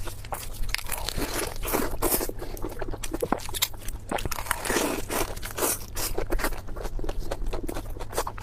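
Close-miked chewing and crunching of food, a steady run of irregular wet clicks and crunches.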